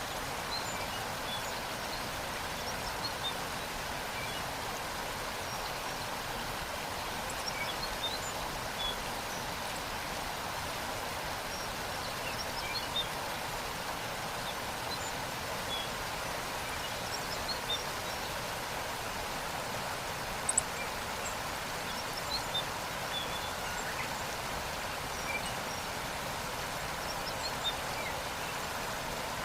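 Waterfall rushing steadily, with small birds chirping now and then and one sharp click about two-thirds of the way through.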